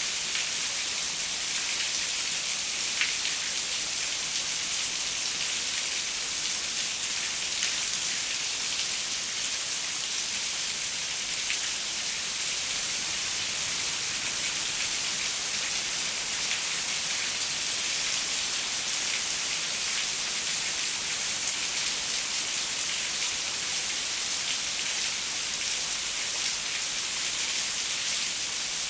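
Steady rain pattering on a window, a continuous hiss with fine drop ticks scattered through it and one slightly sharper tick about three seconds in.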